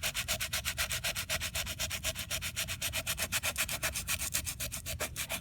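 Coarse sandpaper scrubbed rapidly back and forth over a cured vinyl ester coating, about ten even strokes a second, roughening the surface to give a repair coating something to key into.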